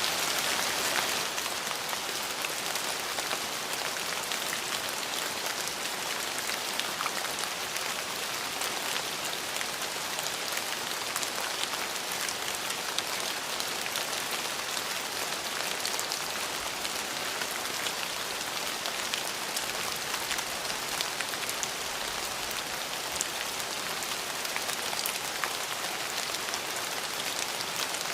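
Steady rain falling on a surface, a constant hiss of dense drops with fine individual drop ticks.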